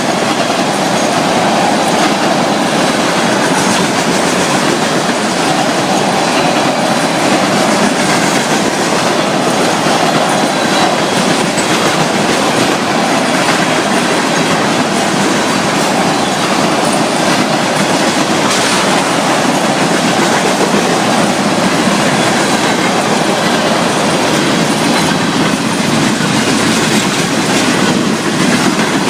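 Florida East Coast Railway freight train rolling past fast, its string of ethanol tank cars giving a steady loud rumble, with the wheels clicking over rail joints and a light squeal now and then.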